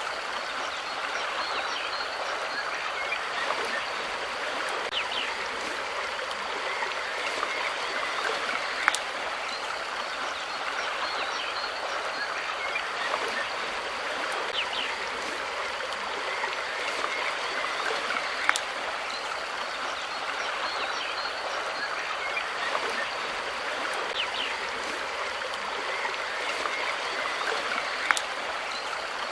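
Flowing water running steadily, like a stream, with small chirps scattered through it and a sharp click about every nine to ten seconds.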